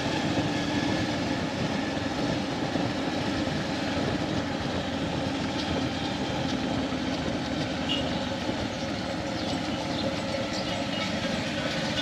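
Motorcycle running steadily while riding, a constant rumble of engine and road noise.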